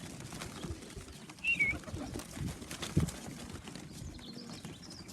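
Young racing pigeons flapping and shuffling about the loft, with scattered low knocks and rustles, a short high chirp about one and a half seconds in and a louder thump near three seconds.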